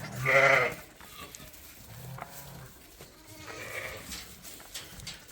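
Sheep bleating: one loud, deep, wavering bleat about half a second in, then fainter bleats a little later, as ewes and their newborn lambs leave the lambing pens.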